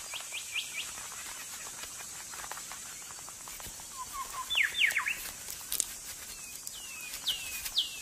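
Birds chirping: short calls that slide quickly down in pitch, a quick run of them near the start, a few more around the middle, and three or four falling whistles near the end, over a faint steady hiss.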